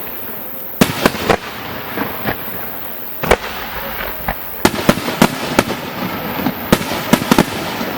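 Aerial fireworks bursting close by: about a dozen sharp bangs, irregularly spaced and bunched near the middle and end, over a continuous crackle.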